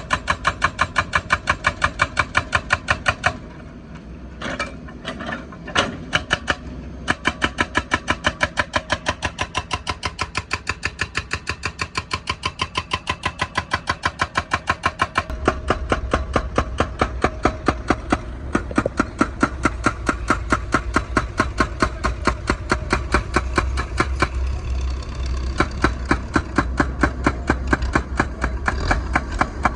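Hydraulic breaker hammer on a wheeled excavator pounding asphalt with rapid, evenly spaced blows. It stops about three seconds in, with a few single blows, then resumes. From about halfway the excavator's diesel engine rumble grows louder beneath the hammering.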